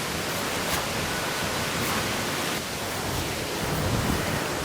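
Strong wind rushing steadily, buffeting the microphone with a fluctuating low rumble.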